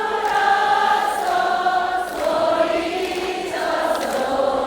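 A large crowd singing a trot song together without accompaniment, many voices on long held notes that step down in pitch.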